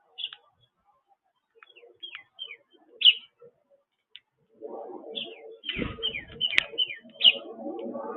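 Small songbirds at a backyard feeder giving many short, high chirps. About halfway in a denser, lower sound joins them, with a brief deep thud in the middle.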